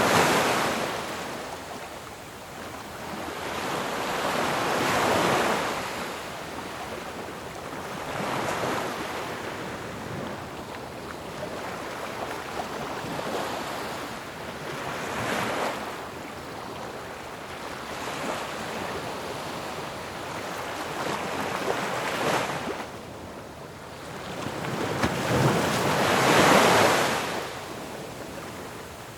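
Ocean surf: waves breaking and washing in, the roar swelling and fading with each wave, about five surges, the biggest near the end.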